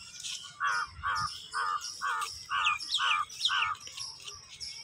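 Birds chirping and calling, with high chirps throughout. One bird gives a steady series of about seven even, repeated notes, roughly two a second.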